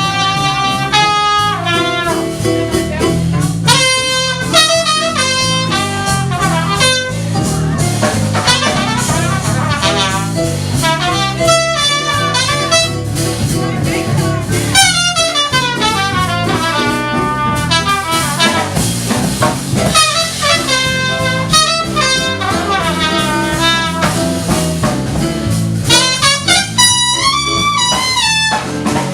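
Jazz band playing an instrumental break: a horn takes a solo line of quick running notes over bass and drum kit.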